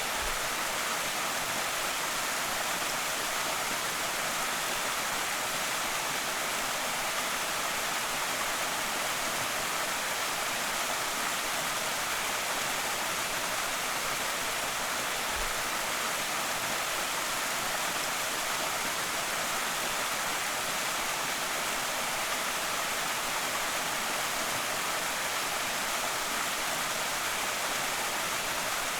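Small creek waterfall splashing: a steady, even rush of falling water, strongest in the high hiss.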